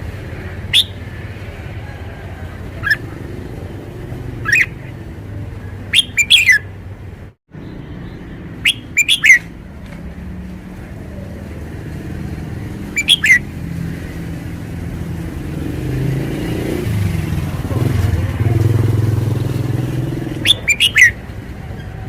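Red-whiskered bulbul singing short, sharp, rapid phrases of a few notes each, repeated at irregular intervals. A steady low engine rumble runs underneath and swells near the end.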